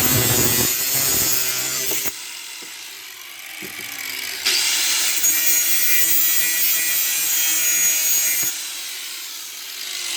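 Power saw cutting through steel lawnmower-handle pipe in two passes: one cut in the first two seconds, a pause, then a second cut from about four and a half to eight and a half seconds in.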